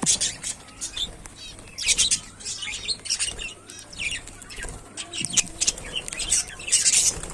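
A flock of budgerigars chattering, with many short, sharp chirps and fast warbling calls overlapping in an irregular stream.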